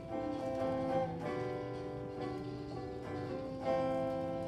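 Instrumental lead-in to a folk ballad: a plucked acoustic stringed instrument playing chords, with a new chord or note coming in every second or so.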